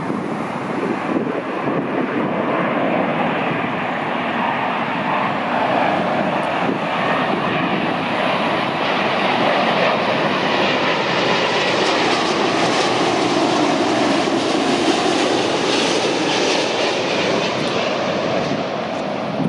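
Jet airliner flying low on its landing approach, a continuous engine roar that grows louder over the first several seconds and then holds.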